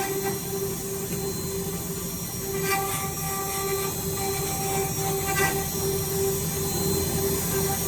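Woodworking drilling machine running with a steady hum, with a short, louder, higher burst about every two and a half to three seconds.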